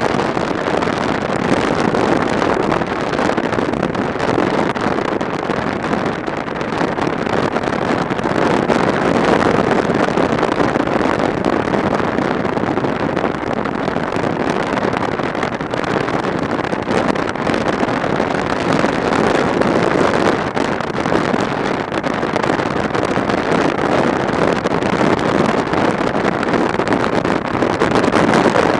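Motorcycle riding along at speed: steady wind rush over the microphone with engine and road noise underneath.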